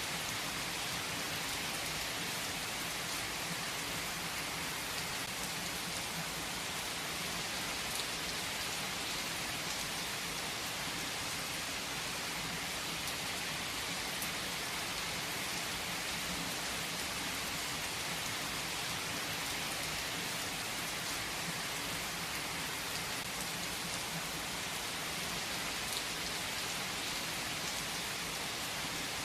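Steady rain falling and pattering on surfaces, an even hiss with a few distinct drop ticks.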